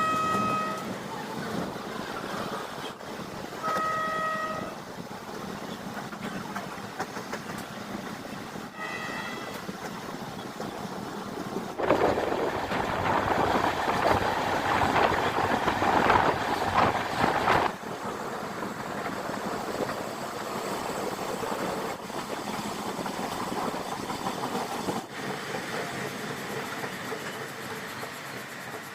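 Express passenger train running on the rails with a steady rumble, its horn sounding briefly near the start, again about four seconds in, and faintly near nine seconds. Midway a much louder rattling rush lasts about six seconds, then the steady running sound returns.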